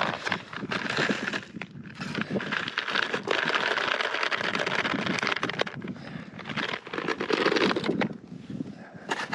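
Plastic food containers being opened and handled, with crinkling, rustling and rattling of trail-mix ingredients in several long stretches and a few sharp clicks.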